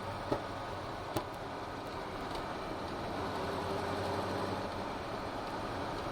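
Ford GT40's V8 engine running steadily at low parade speed, heard from on board, with a couple of sharp clicks in the first second or so.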